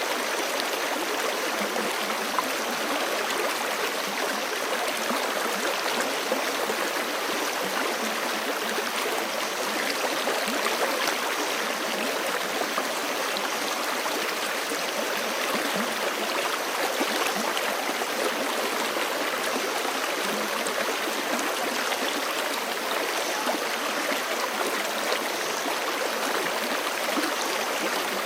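Forest creek running over rocks: a steady, unbroken rush of flowing water with small gurgles.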